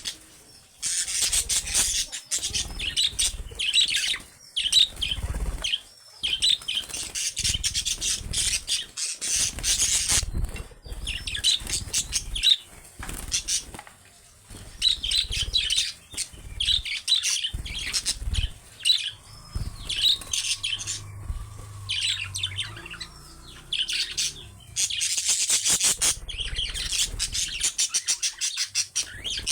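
A group of budgerigars chattering, chirping and squawking in quick, overlapping runs of high calls, with frequent low thumps mixed in.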